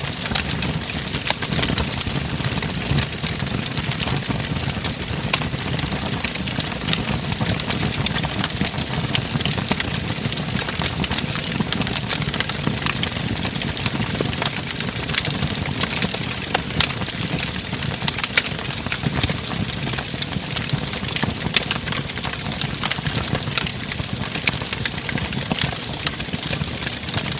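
Wood fire crackling in a fireplace: many small, irregular pops and snaps over a steady low rumble of burning.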